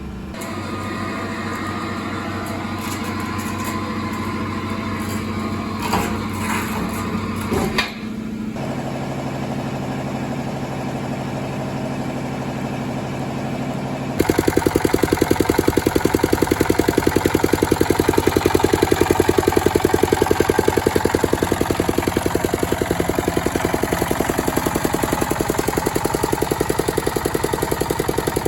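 Changchai L24 single-cylinder diesel engine running. About halfway through it suddenly gets louder, with a fast, even knocking beat.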